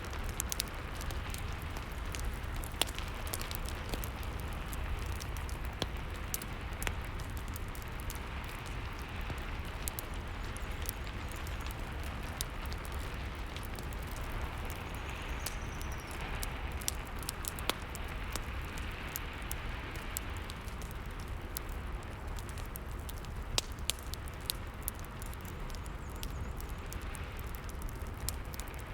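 Rain and a fireplace mixed together: a steady rain hiss with a low rumble, dotted with sharp, irregular crackles from the fire.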